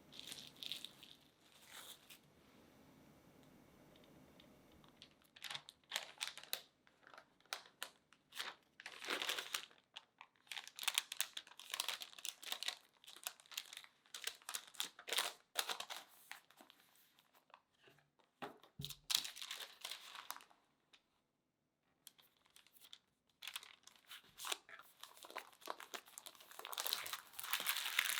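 Paper crinkling and rustling as it is handled, in irregular bursts of sharp crackles, with a short pause about three-quarters of the way through.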